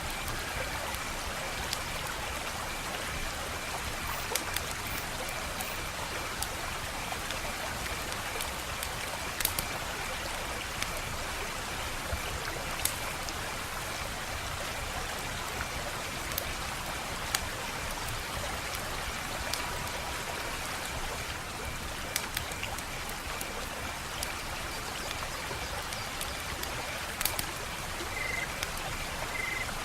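Wood fire crackling: a steady hiss with sharp pops and snaps scattered irregularly, every second or so.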